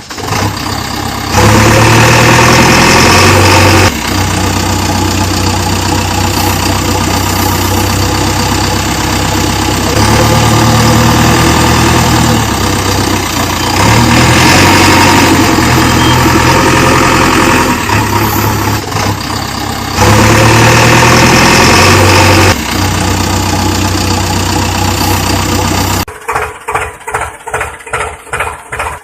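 Engine running steadily, its level stepping abruptly up and down every few seconds. Near the end it drops to a quieter, even chugging of about three beats a second.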